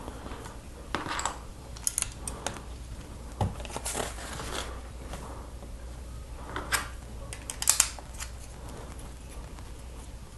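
Plastic Lego bricks being handled and pressed together: scattered small clicks and brief rustling or scraping, with a sharp cluster of clicks near the end, over a faint steady low hum.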